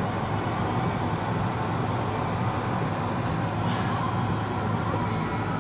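Car engine idling, heard from inside the cabin: a steady low hum with no change throughout.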